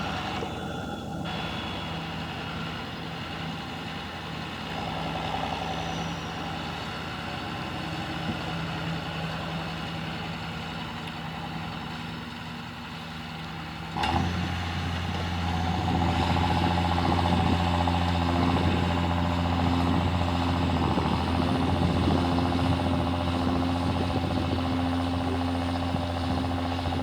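John Deere tractor engine running steadily while working. About halfway, the sound jumps suddenly louder, with a stronger, deeper hum.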